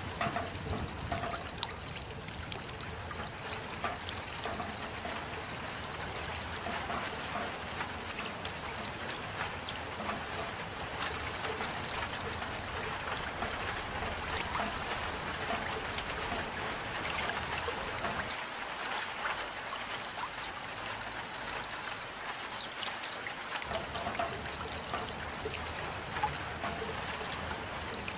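Steady rain with many close drops pattering and runoff trickling. The low rumble under it drops away for a few seconds past the middle.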